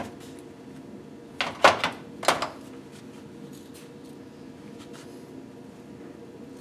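A few short knocks and clinks of piston-ring parts and tools being handled, clustered about one and a half to two and a half seconds in, over a steady low hum.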